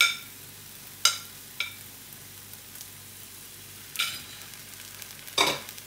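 Chopped onion, garlic and ginger frying in a pan, a steady sizzle, broken by about five sharp clinks of kitchen utensils as chopped green chili is added and stirred in.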